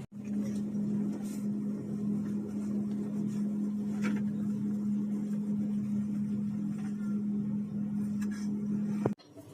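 Steady low hum inside a coach's passenger cabin, one constant droning tone with a few faint ticks over it, cutting off sharply near the end.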